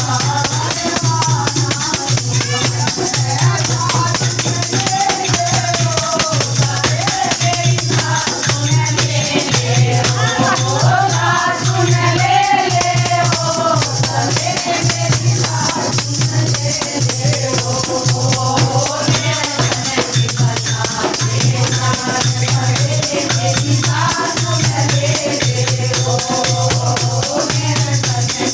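Kirtan music: voices singing a wavering melody over jingling, shaker-like hand percussion and a low pulse about once a second.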